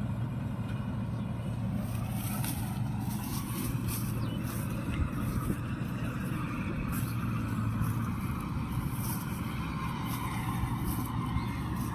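Diesel engine of a Mahindra Novo 655 DI tractor driving a Balkar combine harvester, running at a steady speed, with brief clicks here and there over the hum.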